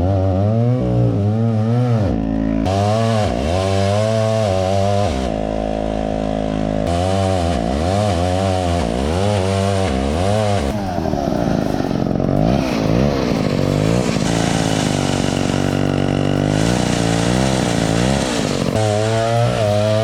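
Gas chainsaw revving, its engine pitch rising and falling again and again as the throttle is worked. It holds steady at high revs for a couple of seconds about five seconds in, and runs rougher and wavering later on.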